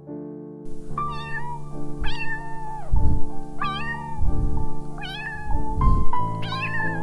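A domestic cat meowing five times, about one call every second and a half, over piano background music.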